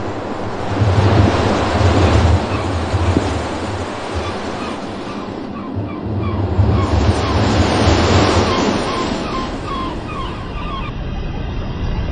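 Steady rushing noise with a low rumble that swells twice, and a run of faint short chirps in the middle.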